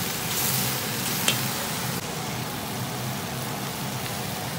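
Stir-fry vegetables sizzling in a large steel pan as they are stirred with a wooden spatula, with one sharp knock about a second in.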